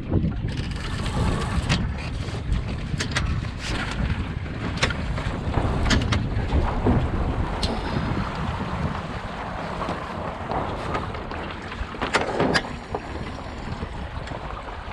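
Gusty wind buffeting the microphone in an uneven low rumble as an Enterprise sailing dinghy moves through the water, with a rushing hiss and scattered short knocks and clicks from the boat.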